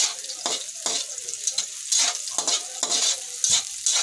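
Chopped garlic and onion sizzling in hot oil in a wok, with a spatula scraping across the pan about twice a second as they are stirred.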